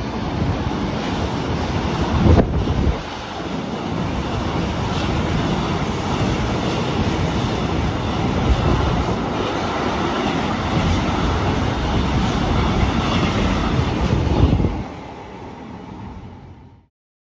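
Intermodal container freight train running past at speed, a steady loud rumble of wagon wheels on the rails with one heavy clank about two and a half seconds in. The noise falls away sharply as the last wagons pass, near the end, then cuts off suddenly.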